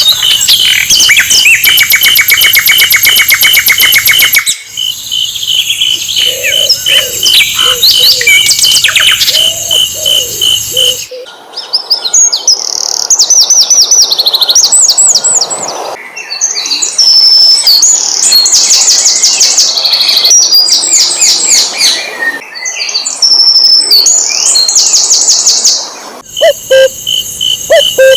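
Sikatan londo (a flycatcher) singing: fast trills and bright whistled phrases, loud and close, in stretches that cut off abruptly every few seconds as if spliced. A steady high insect-like buzz runs under the song in the first few seconds.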